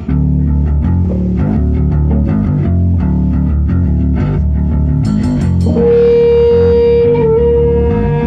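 Guitar music: a run of low plucked bass-register notes. About five seconds in come a few sharp high strokes, then a long held higher note that wavers briefly.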